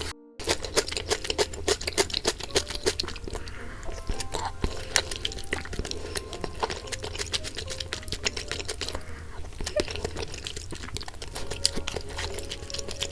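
Close-miked chewing and crunching: dense, irregular small clicks and crunches of a person eating, with soft background music underneath.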